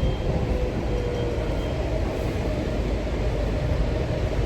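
DC Metro train running, heard from inside the car: a steady low rumble and hiss with a faint motor whine that climbs slightly in pitch as the train gets under way.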